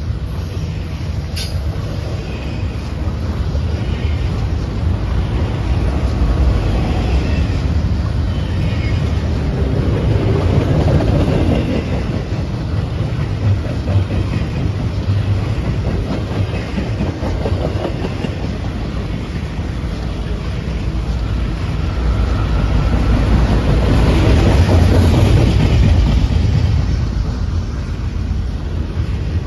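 A train rolling past: a continuous rumble of wheels on rails that grows louder twice, about a third of the way in and again near the end.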